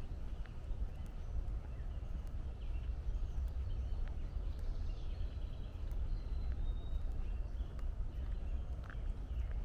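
Walking footsteps on a trail over a steady low rumble of distant highway traffic, with faint bird chirps and whistles.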